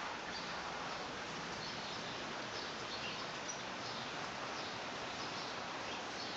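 Steady hiss of light rain, with faint high bird chirps scattered through it.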